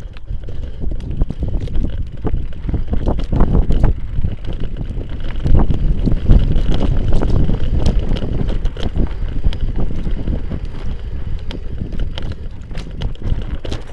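Wind rumbling on an action camera's microphone while a bicycle rattles over a rough dirt trail, with many small sharp knocks and clatters throughout.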